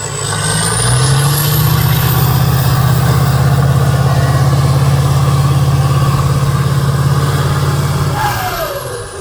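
A competition truck's engine pulls hard under heavy load, with a high whine rising alongside it. Near the end the engine eases off and the whine falls away.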